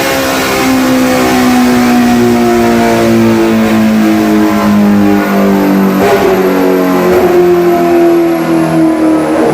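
Kawasaki ZX-6R inline-four engine running hard through an Austin Racing aftermarket exhaust on a dyno, its pitch slowly falling, with a sudden change in note about six seconds in and again near the end.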